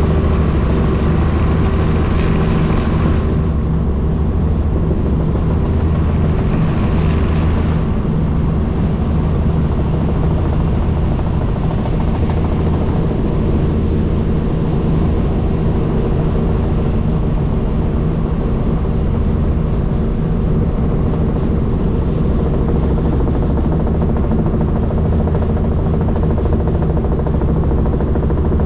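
Helicopter in flight: the steady, loud drone of its engine and rotor. A higher hiss above it thins out about three seconds in and again near eight seconds.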